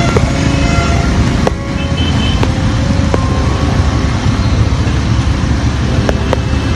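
Street traffic: motor vehicles running on a road, a dense steady noise with a few short clicks.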